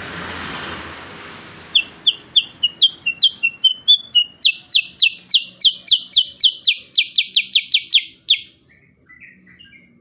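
A cucak kurincang, a bulbul, sings a rapid train of short, sharp, down-slurred notes. The train starts after a brief soft hiss, speeds up and grows louder, and stops abruptly about eight seconds in, followed by a few faint chirps. This is the repeated 'tembakan' (shooting) call this bird is prized for.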